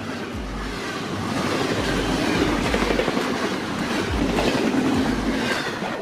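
Freight train running along the track, a steady noise of wheels on rails.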